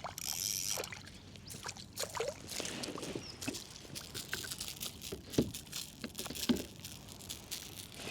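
Light splashing and dribbling of water with scattered small clicks and knocks, a couple of them sharper about five and six and a half seconds in.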